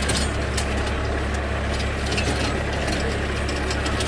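Force Orchard mini tractor's diesel engine running steadily, with scattered sharp clicks and rattles over the drone.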